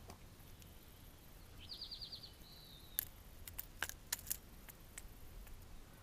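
A songbird sings one quick trill of rapid high notes that ends in a short held note. About a second later come five or six sharp clicks and taps in quick succession, louder than the bird.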